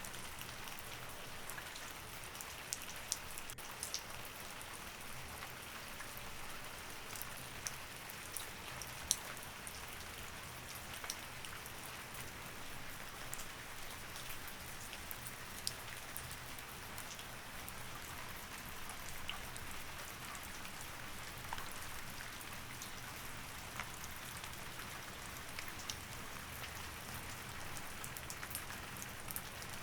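Steady rain falling, with many sharp single drops ticking on a hard surface over an even wash of rain noise, and a faint low hum beneath.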